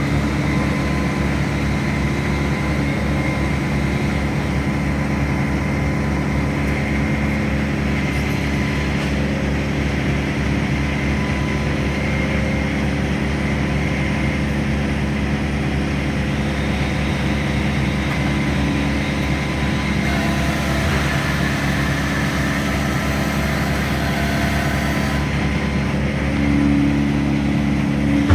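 An engine running steadily at constant speed, with a brief rise in level near the end.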